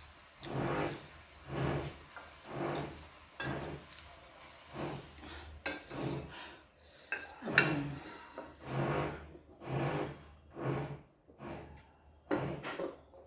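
Close-up chewing and crunching of food, in short rasping bursts about once a second.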